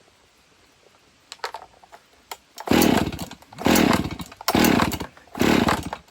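Husqvarna 55 two-stroke chainsaw being pull-started: a few light clicks, then four hard pulls on the recoil starter about a second apart, the engine turning over without catching.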